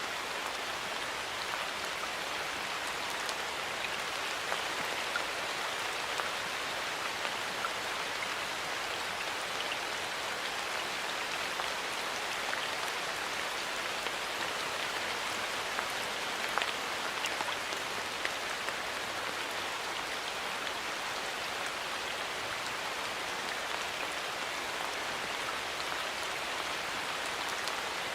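Steady rain falling in a forest, an even hiss with scattered individual drops pattering on leaves and surfaces.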